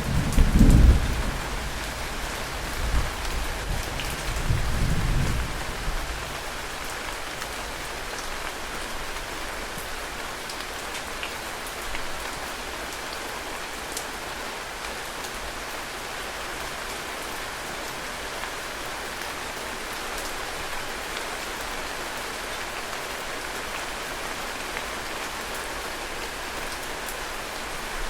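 Heavy rain falling steadily and evenly, with low rumbling thunder in the first several seconds that swells twice and then dies away, leaving only the rain.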